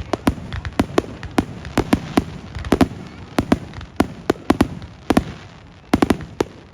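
Fireworks exploding overhead in a rapid, irregular run of sharp bangs, two or three a second, each trailing a short echo, over a continuous low rumble.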